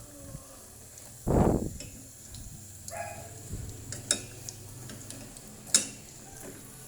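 Battered shrimp frying in oil with a faint steady sizzle, broken by a loud muffled thump about a second in and two sharp clicks of a utensil later on.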